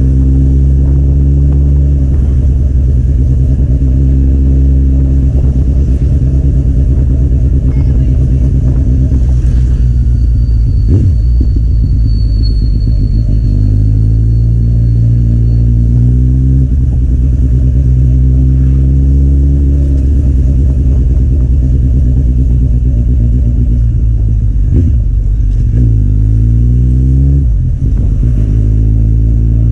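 Kawasaki Z800 inline-four engine through an aftermarket Akrapovic exhaust, heard from the moving motorcycle. The engine note climbs with the throttle several times, and near the end it drops briefly at a gear change and rises again.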